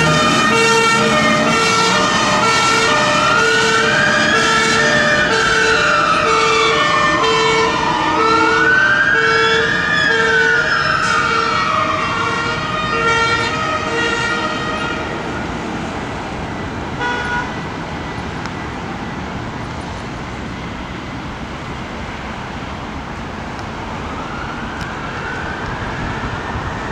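British fire engines' two-tone horns sounding their alternating two notes, with a wailing siren rising and falling over them every few seconds. Both fade away after about fifteen seconds, leaving steady road noise, and a siren wail comes back faintly near the end.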